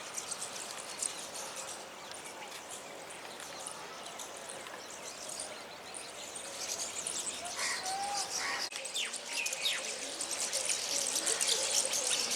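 A flock of small birds chirping and twittering together, a steady chorus of short, high calls that grows busier and louder in the second half.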